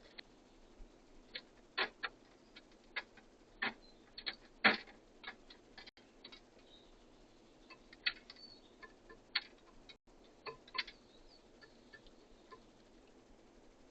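Irregular sharp taps and clicks of birds pecking at seed and landing on a bird feeder, some louder than others, the loudest about four and a half seconds in.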